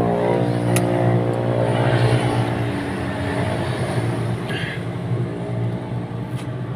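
A vehicle engine running. Its pitch drops and settles just as the sound begins, then it holds a steady note and slowly fades, with a few faint clicks.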